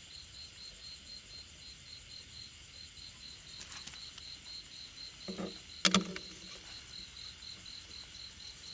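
A cricket chirping steadily in a high, even pulse of about four or five chirps a second. A brief low sound a little past five seconds in is followed by a sharp knock, the loudest thing here.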